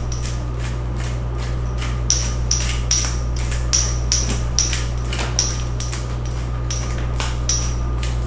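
Italian seasoning being dispensed from a spice container: a steady run of sharp clicks, about two and a half a second, over a constant low hum.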